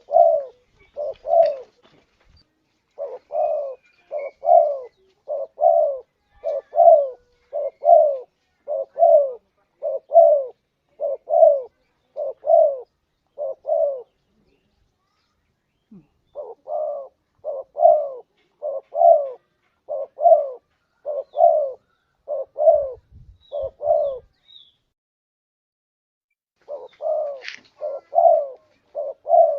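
Spotted dove (tekukur) cooing: runs of short, low coo notes at about two a second, broken by two pauses of two to three seconds, about halfway through and again near the end.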